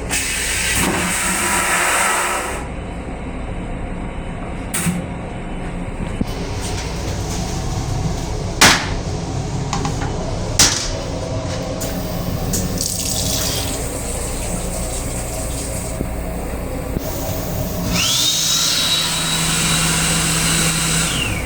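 Restroom of a Metro-North M8 railcar: a steady low hum from the railcar, a few sharp clicks, and near the end a toilet flush whose pump or motor whine rises quickly, holds for about three seconds and falls away.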